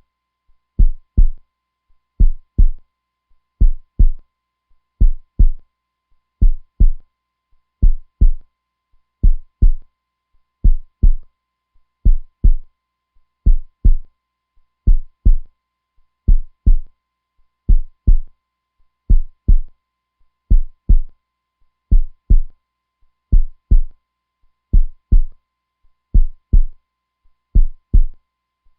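Heartbeat sound: a steady, slow lub-dub, each beat a pair of dull low thumps, repeating about once every second and a half.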